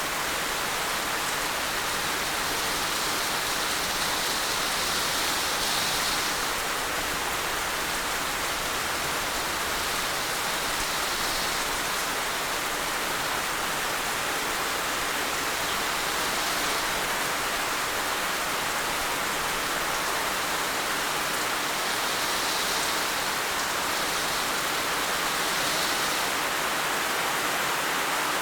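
Heavy rain falling steadily, a dense even hiss with slight swells now and then.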